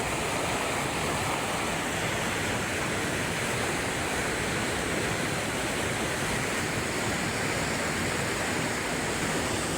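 Steady rush of fast-flowing water, an even, unbroken roar.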